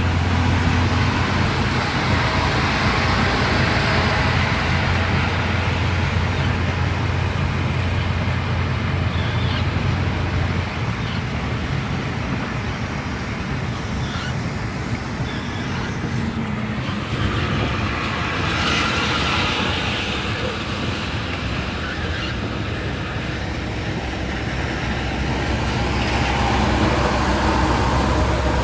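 A car driving along a road: steady road and engine noise with a low drone that drops away about ten seconds in, swelling again briefly later on.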